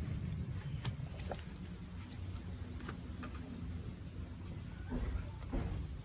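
Light scraping and scattered small taps from hands and a utensil working on vegetables, over a low steady hum.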